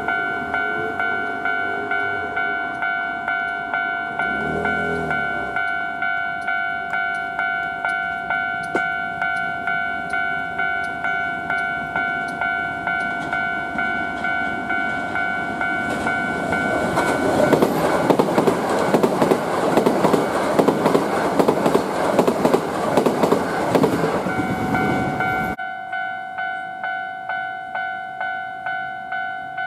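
A railway warning bell ringing evenly at about two strikes a second, while a Hankyu electric train runs past on the near track. The train's wheel and running noise is the loudest sound, building from about 16 seconds in and cutting off sharply about 25 seconds in.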